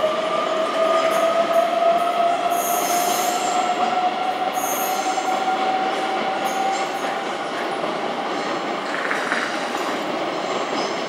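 Electric train moving through an underground station on curved track: a steady whine that slowly rises in pitch over a constant rumble, with brief high screeches of the wheels about two and a half and four and a half seconds in.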